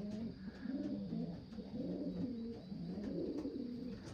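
Racing pigeons cooing, several low warbling coos overlapping one another.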